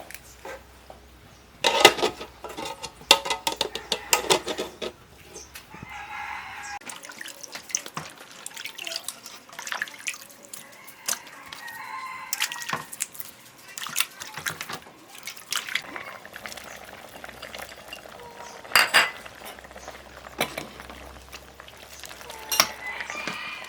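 Farmyard chickens: a rooster crowing and hens clucking, mixed with a run of sharp cracks, snaps and rustling handling noises, thickest a couple of seconds in and again around two thirds of the way through.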